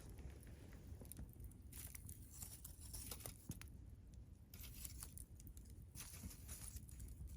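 Wood campfire crackling faintly, with scattered sharp pops and snaps over a low steady rumble.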